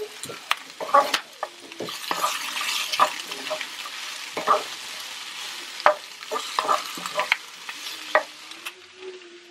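Sliced Polish sausage and onions sizzling in a frying pan as a wooden spoon stirs them, with frequent clicks and scrapes of the spoon against the pan. The sizzle fades near the end.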